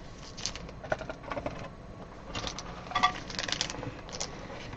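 Trading cards and their packaging being handled: light, irregular clicking and crinkling.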